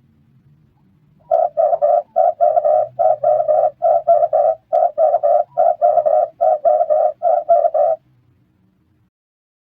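Red turtle dove cooing: a long run of short, low coos in quick groups of two or three, starting about a second in and stopping about two seconds before the end.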